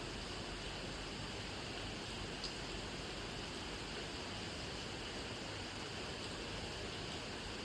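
Steady rain falling, an even hiss with a few faint drop ticks, one clearer tick about two and a half seconds in.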